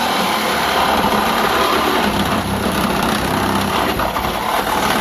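Reciprocating saw cutting through the steel roof pillar of a 1963 Chevy truck, the motor buzzing steadily as the blade saws the sheet metal.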